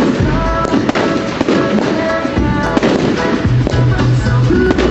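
Fireworks exploding in a display, with repeated bangs and crackles over loud music played alongside it.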